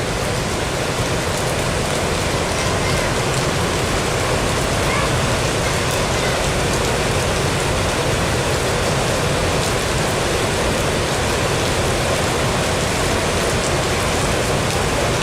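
Steady, loud rush of water with no pauses or changes.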